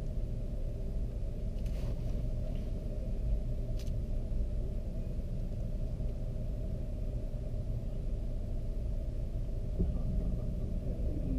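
2010 Dodge Charger SXT AWD's 3.5-litre V6 idling, heard from inside the cabin as a steady low rumble.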